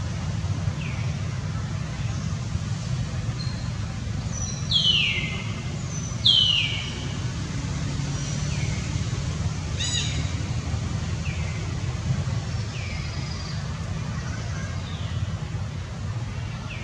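Short, high calls that fall in pitch, repeating every second or two, two of them much louder about five and six seconds in, over a steady low rumble.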